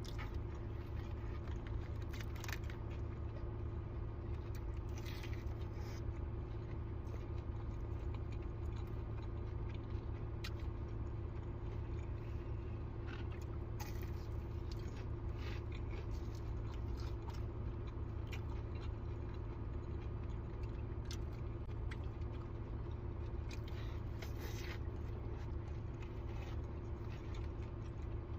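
Close-up eating sounds: scattered bites, chewing and mouth clicks over a steady low hum.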